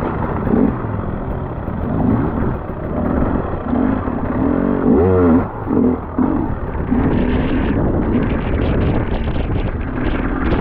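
Enduro motorbike engine running under way, with a quick rise and fall in revs about five seconds in.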